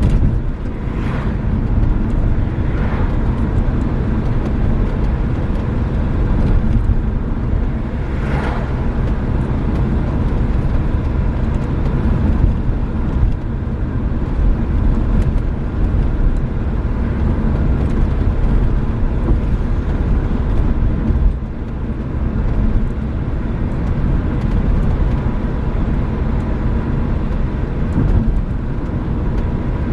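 Renault Megane III on the move: steady engine and road rumble, with a few brief rushes of noise in the first ten seconds.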